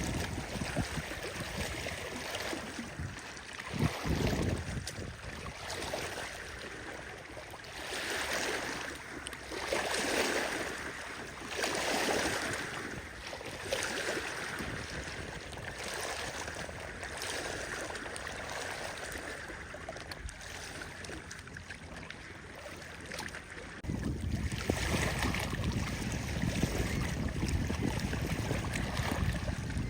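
Wind blowing over the microphone at a lake shore, with lake water washing in. It swells in several surges, and a deep wind rumble picks up again about three quarters of the way through.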